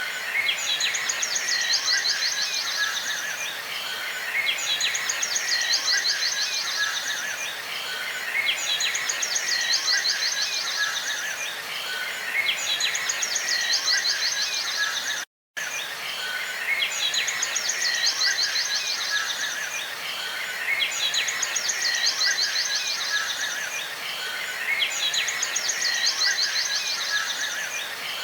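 Outdoor birdsong and insect calls: a high, rapid trilled phrase repeats about every two seconds over a steady hiss. The sound cuts out for a moment about halfway through, then the same loop starts again.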